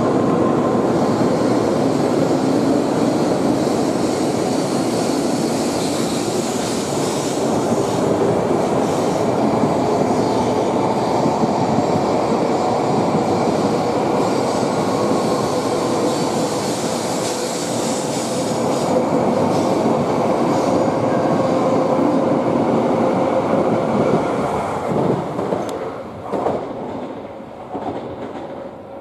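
N700 series Shinkansen train accelerating away from a station platform as its cars pass close by: a loud, steady running rumble of wheels on rail with a faint steady tone in it. The sound fades near the end as the last car moves off, with a few short clicks.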